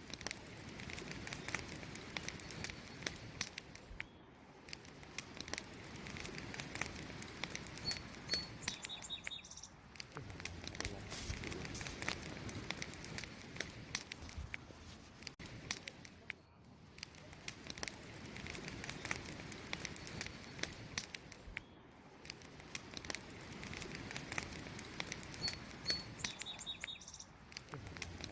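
Wood fire crackling: a dense run of pops and crackles over a soft hiss, swelling and dipping every five seconds or so. Twice, a bird gives a few short high chirps.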